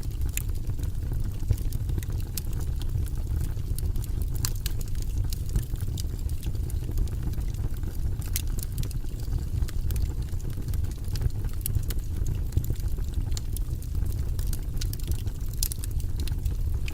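Campfire burning and crackling, with frequent irregular sharp pops and snaps over a steady low rumble.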